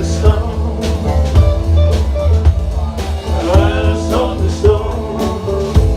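Live rock band playing an instrumental passage: a steady bass line and drums under a lead instrument playing sliding, bent notes.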